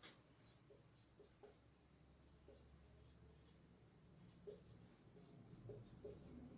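Faint, irregular scratchy strokes of writing, short and separate, as a chemical structure is drawn out by hand.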